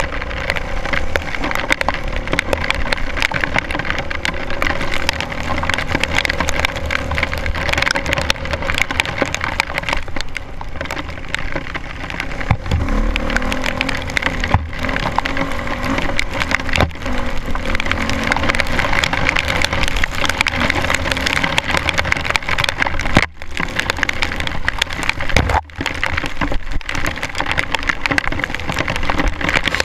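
Rain and spray crackling and pattering on an action camera's waterproof housing during a dirt bike ride, a dense, loud clatter over a steady low drone. It drops out briefly twice near the end.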